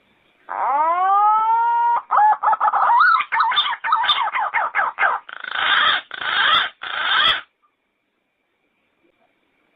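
Yellow-footed green pigeon singing: a long rising whistle, then a quick run of warbled notes, ending in three rougher notes. It starts about half a second in and stops abruptly at about seven and a half seconds.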